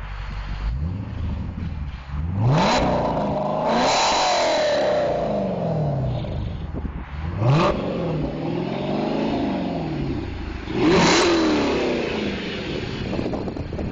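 2012 Dodge Challenger SRT8's 6.1-litre Hemi V8 revved three times from idle, each rev climbing sharply and falling back to idle, about 2.5, 7.5 and 11 seconds in. It is heard at the exhaust, from behind the car.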